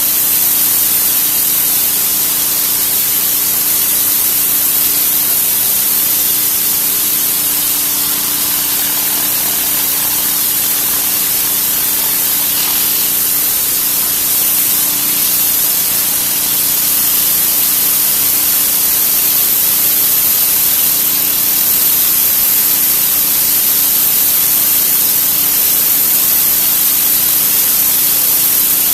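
Pressure washer spraying a concrete driveway: a steady hiss of the jet on the concrete, with the washer's steady motor hum beneath.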